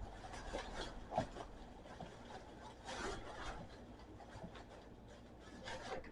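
Faint rubbing and scuffing with a few soft knocks, from shoes being handled and put on.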